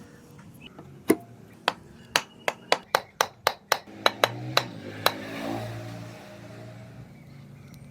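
About a dozen hammer blows in quick succession on an axe being hung, driving the head and wedges onto the handle. The strikes come faster in the middle and end with a short ring.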